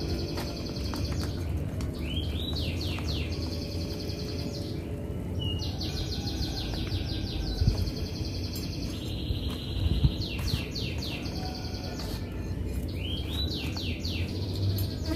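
A songbird singing in long runs of rapid, high trilled notes, broken by short upward-sliding notes and brief pauses. Two knocks come in the middle.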